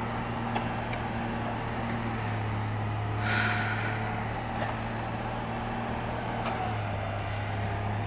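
Steady low engine hum from a motor vehicle, with a brief hiss about three seconds in.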